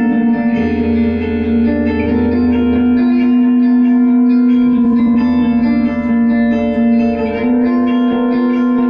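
Band playing an instrumental passage led by electric guitar through reverb and echo effects, sustained chords over a bass line.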